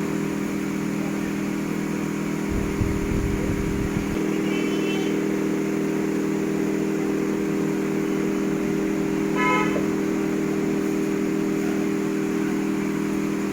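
A steady electric motor hum with several pitched tones, like a fan or a running machine on the repair bench. A low rumble comes in about two and a half seconds in and lasts about a second and a half. A brief higher pitched tone sounds about nine and a half seconds in.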